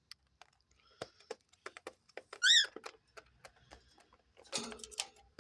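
Cockatiel giving one short, quick chirp about two and a half seconds in, amid scattered light clicks and scratches of the birds moving about the paper-lined cage.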